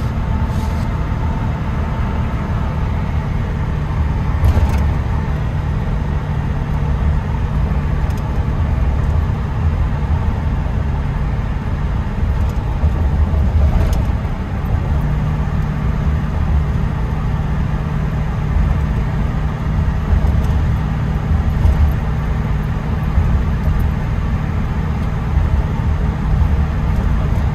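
Inside the cab of a 1979 Chevy K10 pickup cruising at a steady speed with the rear window open: its Blueprint 400 small-block V8 and aftermarket exhaust make a steady low drone under a rumble of tire noise. It is pretty quiet at cruise, with more tire noise than anything.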